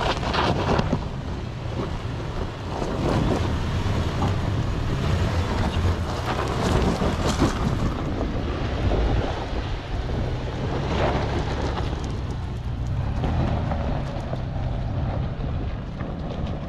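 Off-road truck's engine running under load as it works over rough trail, with wind buffeting the microphone.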